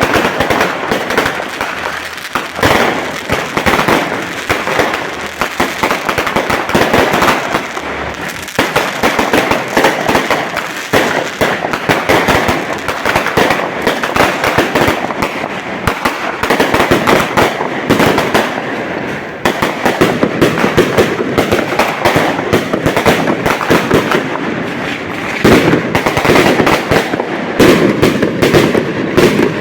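Fireworks going off in a dense, continuous barrage of bangs and crackling pops.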